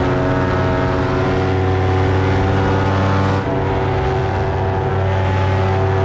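Paramotor engine and propeller running at a steady throttle in flight, a constant droning tone with a brief dip about three and a half seconds in.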